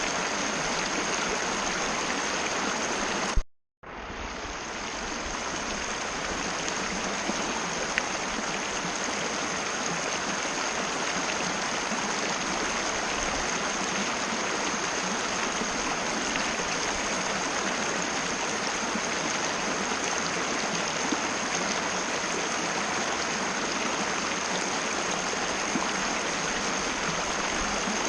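Mountain river flowing steadily, an even rushing of water with a thin steady high tone above it. About three and a half seconds in, a click and then the sound cuts out completely for a moment before fading back in.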